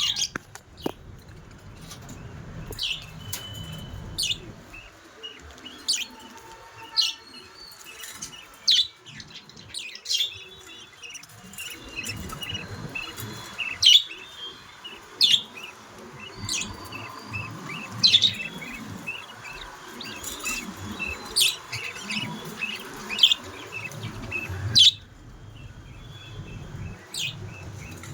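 Budgerigars chirping: sharp, high calls every second or so over a fainter, continuous twittering chatter.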